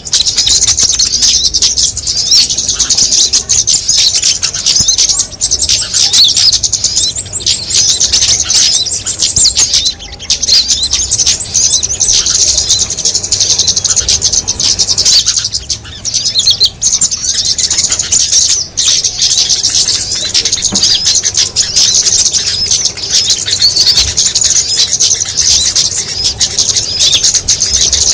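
Bird-lure recording of small songbirds: a dense, unbroken flurry of rapid, high-pitched chirps and twitters from many overlapping calls, with short lulls about ten and fifteen seconds in.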